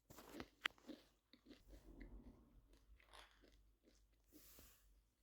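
Quaker parrot (monk parakeet) biting and crunching a potato crisp: faint, irregular crunches and clicks, the sharpest about half a second in.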